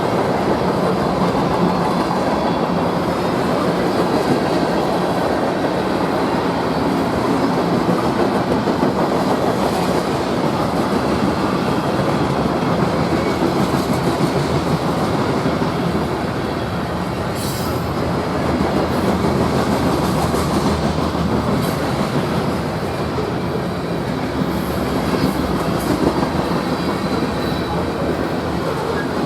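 Freight train cars rolling past on the rails: a steady rumble and clatter of wheels on the track, with a brief high-pitched wheel squeal just past halfway.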